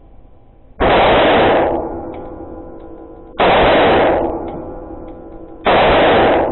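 Three single shots from a Glock 43X 9mm pistol, spaced about two and a half seconds apart. Each shot is very loud and sudden and is followed by a long ringing decay.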